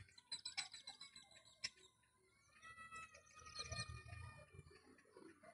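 Faint bird calls and chirps, with a faint low rumble of distant road traffic about two-thirds of the way through.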